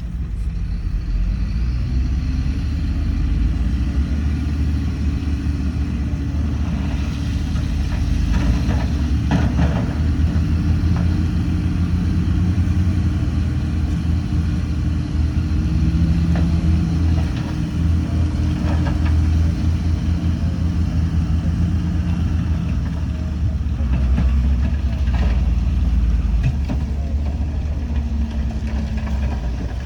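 Heavy diesel engine of earthmoving machinery running under load, its pitch rising about two seconds in and falling back near the end, with a few short sharp noises along the way.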